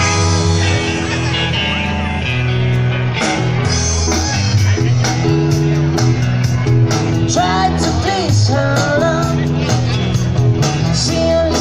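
Live band playing rock music: held bass notes, guitar and a steady drum beat, with a voice singing from about seven seconds in.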